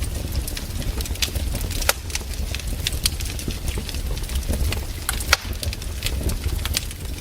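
Campfire crackling: burning wood snapping and popping in irregular sharp cracks over a low steady rumble, with louder pops about two seconds in and again past five seconds.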